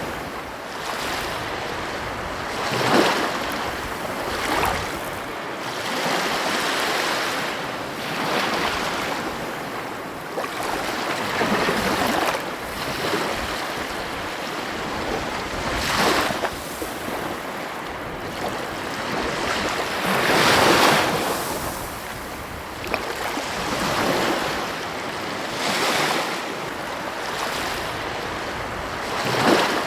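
Ocean surf washing onto a beach: a steady rush of water with waves breaking every few seconds, several of them louder crashes.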